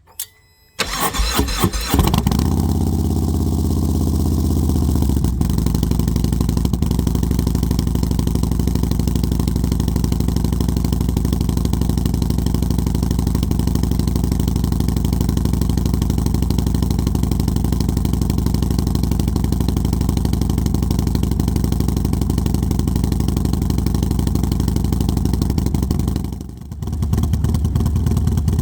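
Harley-Davidson Low Rider S's Milwaukee-Eight 117 V-twin, fitted with a Star Racing 30/30 cam and Thrashin AR exhaust, cold-started: it is cranked, catches about two seconds in at a raised fast idle, and settles to a steady lower idle around five seconds in. Near the end the sound dips briefly and the engine is heard idling warm.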